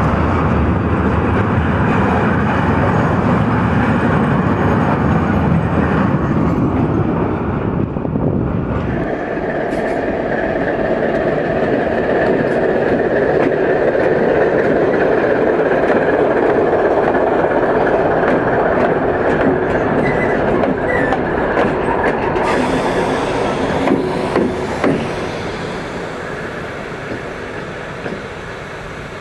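A train passing close by. A deep rumble fills the first nine seconds or so, then the cars roll past with steady wheel noise and repeated clicks over the rail joints. The sound fades away over the last few seconds.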